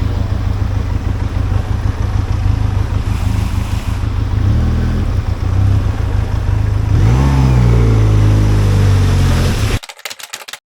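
Benelli TRK502X motorcycle's parallel-twin engine running under way, with wind on the microphone and the revs rising twice, about four and seven seconds in. The sound cuts off suddenly near the end.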